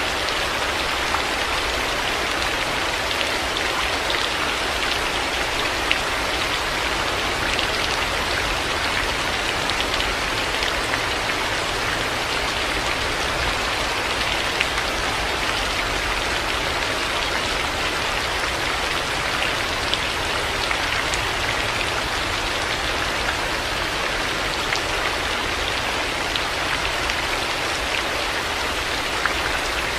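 Heavy rain falling in a steady hiss, with scattered small ticks of individual drops striking a surface.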